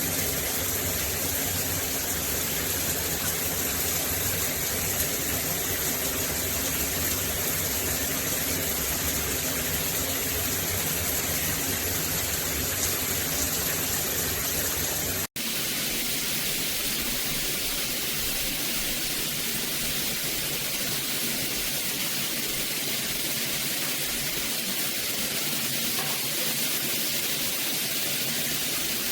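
Shower water running steadily from a stainless steel rain and handheld shower head combo, a constant rushing hiss. It breaks off for an instant about halfway through, then carries on thinner, with less low rumble.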